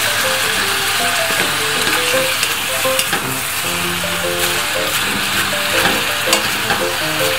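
Venison and sliced onions sizzling as they are stir-fried in a cast-iron Staub cocotte, with a wooden spatula scraping and clicking as it turns them. Soft background music with a simple melody plays underneath.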